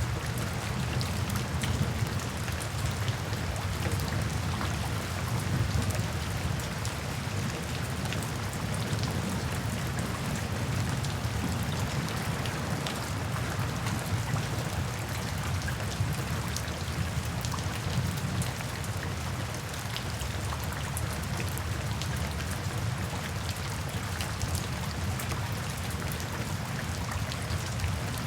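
Steady rain falling, with many individual drops ticking on surfaces over a steady low rumble.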